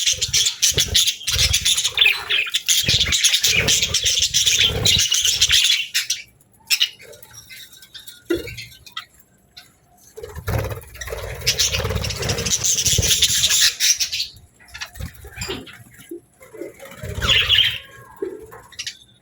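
Small pet birds chirping and chattering in two long dense stretches and a short burst near the end, with low thumps among the calls.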